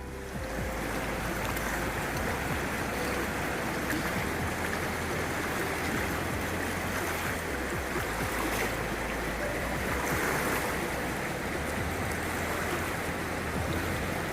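Rushing water of a typhoon-swollen river in flood, a steady dense roar with a low rumble underneath.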